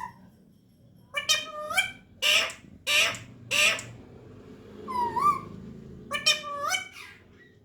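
Pet parrot calling: a few shrill calls with bending pitch, then three harsh squawks in a row, then more shrill calls near the end.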